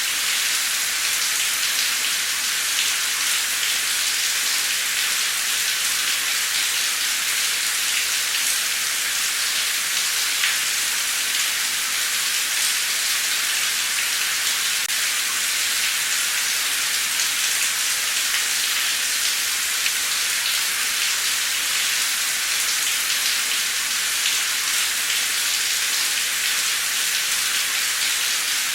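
Heavy, torrential rain pouring steadily, a dense even hiss of countless drops on a surface.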